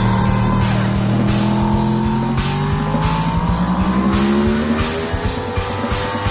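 Motorcycle engine pulling up through the revs, its pitch rising steadily in one long climb, over rock music with a steady drum beat.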